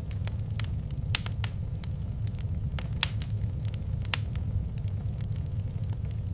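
Wood fire in a fireplace crackling, with irregular sharp pops, the loudest about one, three and four seconds in, over a steady low rumble.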